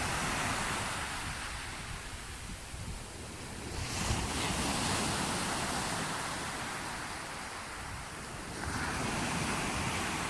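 Sea waves washing in, swelling about four seconds in and again near the end, with some wind on the microphone.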